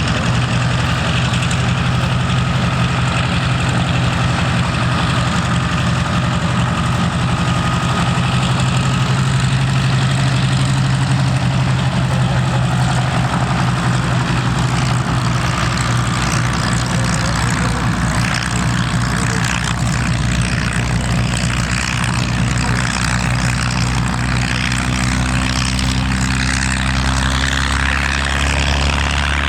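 Propeller aircraft's piston engine running steadily, a deep even drone with a fine rapid pulsing from the cylinders firing.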